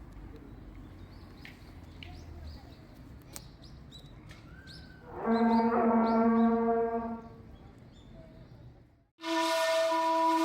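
Faint chirping over a steady outdoor background, then a loud held horn-like tone about five seconds in that lasts about two seconds. After an abrupt cut to silence, a second, higher horn-like tone starts near the end.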